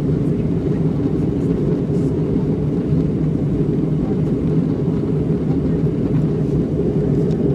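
Steady cabin noise inside an Airbus A320-211 in flight during its descent: an even, low rumble from its CFM56 engines and the airflow past the fuselage.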